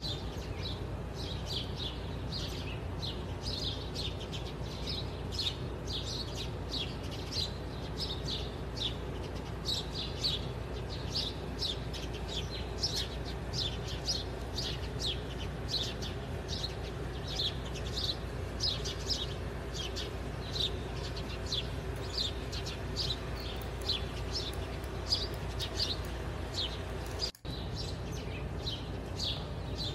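Small birds chirping: short, high, falling chirps, two or three a second, over a steady low background hum. A brief dropout interrupts them near the end.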